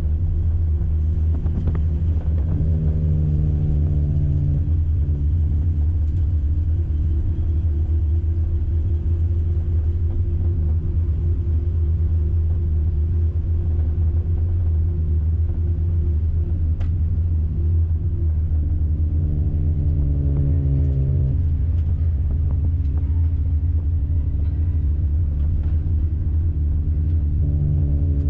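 Toyota Yaris NCP91 race car's 1.5-litre four-cylinder engine running under way, with a steady heavy low drone. The engine note shifts in pitch a few times: about three seconds in, about twenty seconds in, and near the end.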